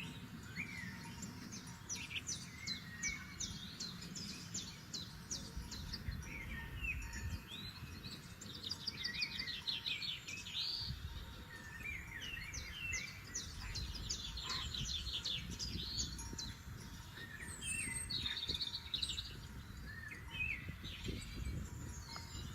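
Several forest songbirds singing and calling at once: overlapping chirps, quick trills and rising and falling whistles. A low, steady rumble runs underneath.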